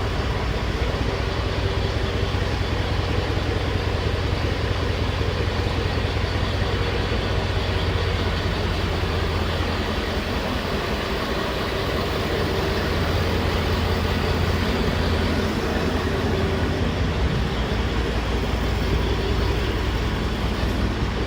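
Mercedes E420 CDI twin-turbo V8 diesel running steadily at idle through a straight-piped exhaust with the DPF and muffler deleted.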